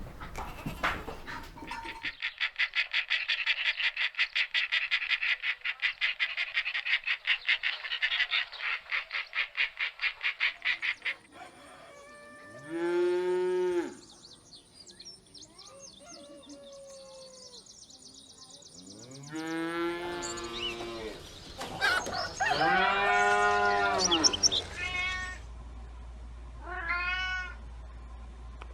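A rapid, rattling trill for several seconds, then a domestic cat meowing several times, one long meow among shorter ones, each rising and falling in pitch.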